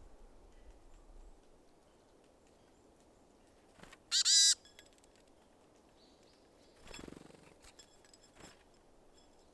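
A single short, harsh bird call about four seconds in, loud and close, from a small bird at a winter seed feeder. A fainter rustle follows around seven seconds.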